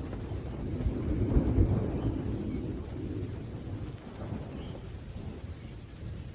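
Rolling thunder rumbling low over steady rain. It swells to its loudest about a second and a half in, then slowly dies away.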